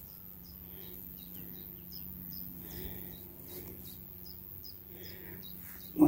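Faint songbird chirping: a scatter of short, high, slurred notes, two or three a second, over a low steady hum.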